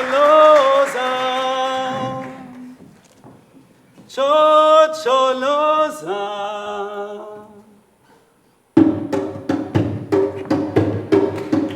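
A cappella vocal ensemble singing two held chords that each swell and fade, then, after a short pause, sharp percussive beats at about three a second start up under low sustained voices, the opening groove of a South African song.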